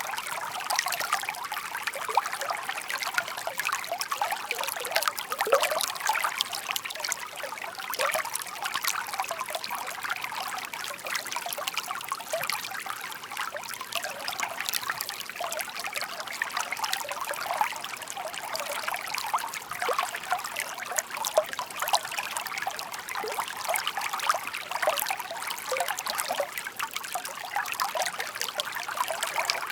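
Shallow babbling stream: water trickling and burbling steadily, a dense patter of many small splashes with little low rumble.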